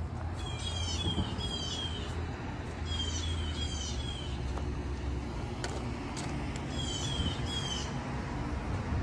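A songbird singing three phrases, each a quick run of three or four short falling notes, over a steady low rumble.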